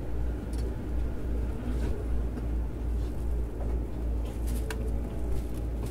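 Steady low rumble inside the car of a Keikyu New 1000-series train, with a few faint clicks and no rising or falling motor whine.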